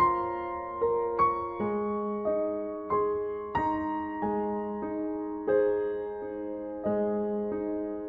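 Background music: slow, gentle piano, notes struck one after another at an even, unhurried pace and left to ring.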